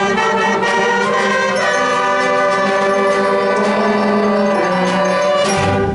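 A school concert band with brass and saxophones holding a long sustained final chord, which shifts once about a second and a half in and is cut off together near the end.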